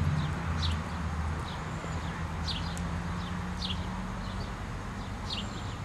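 A bird calling over and over: short, high, downslurred chirps about once a second, over a low steady hum.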